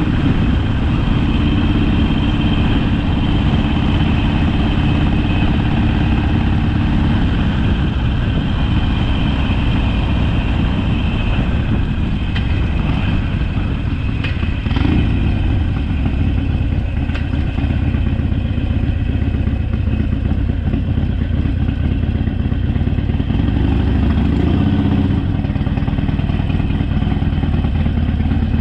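Harley-Davidson Sportster V-twin engine running steadily as the motorcycle is ridden. Its pitch shifts about a quarter of the way in and rises and falls briefly about halfway and again near the end.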